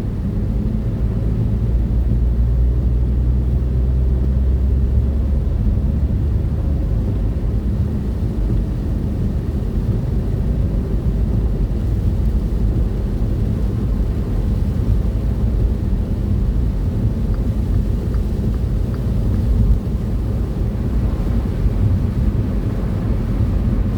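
Car driving at road speed: a steady low rumble of engine and road noise, heaviest in the first five seconds or so.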